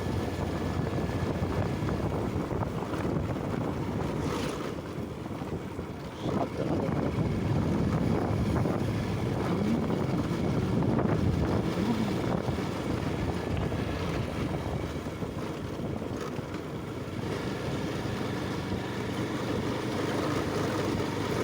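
Wind rushing over the microphone of a moving motorcycle, with the bike's engine running underneath. A single knock about six seconds in, after which the noise gets louder.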